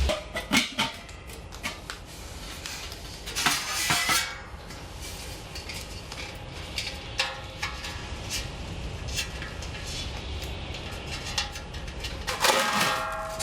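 Metal fire pit parts being handled: scattered clinks and knocks, a short rustle of packaging or film a few seconds in, and ringing metal-on-metal clinks near the end.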